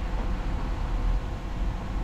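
Diesel engine of heavy earthmoving machinery running steadily, a low rumble with a faint steady hum above it.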